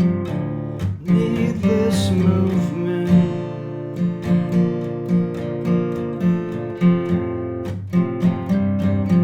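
Acoustic guitar strumming chords in a steady rhythm: an instrumental passage of a song.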